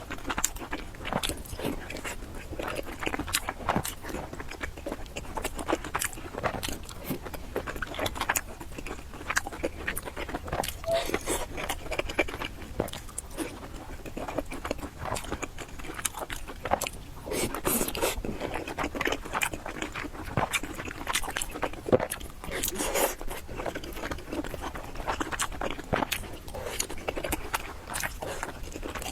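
Close-miked eating sounds: a person chewing and smacking through noodles and dumplings with many small wet clicks, and a few longer, louder mouth noises mixed in.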